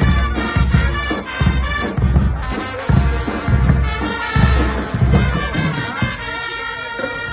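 Guggenmusik brass band playing, with horns over a heavy bass-drum beat about twice a second. The drum beat drops back from about six seconds in.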